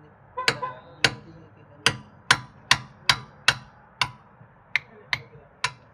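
About eleven sharp knocks in quick, slightly uneven succession, each with a brief ring, like blows struck on a hard object.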